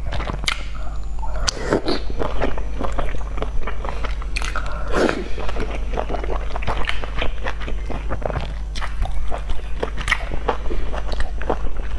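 Close-miked eating of soft boiled dumplings (jiaozi): a dense run of small wet chewing clicks and lip smacks, with a steady low hum underneath.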